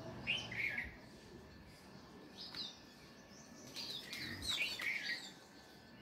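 Small birds chirping in short clusters: a couple of chirps near the start, a few more midway, and a busier run of quick chirps in the second half.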